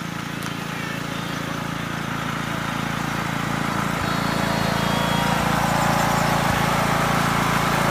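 Riding lawn tractor's engine running steadily, growing gradually louder.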